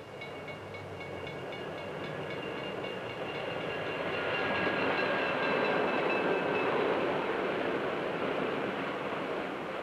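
Diesel-electric streamlined passenger train running past, a steady rumble that swells to its loudest after the middle and then eases off. A few thin, steady high tones ride over it for the first two-thirds.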